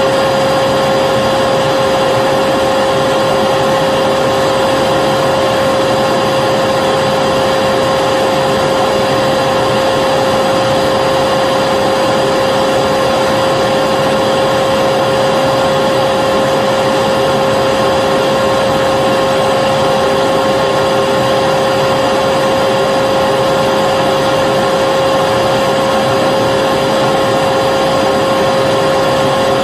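Vacuum cleaner motor running steadily: a constant rush of air with a steady high hum, unchanging throughout.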